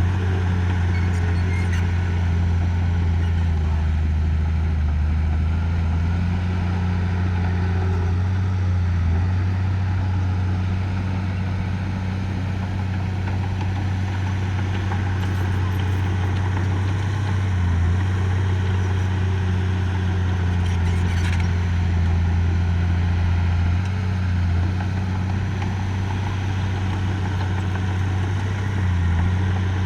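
Diesel engine of heavy earthmoving equipment running steadily, with small dips and rises in engine speed as it works.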